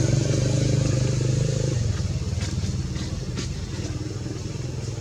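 An engine running steadily, easing off slightly in level, with a few light clicks in the middle.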